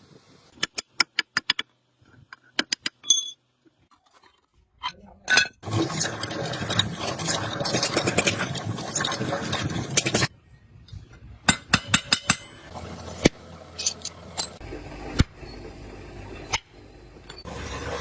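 Hand tools working on metal parts: quick runs of light metallic taps and clinks, then about four seconds of continuous scraping, then more scattered taps.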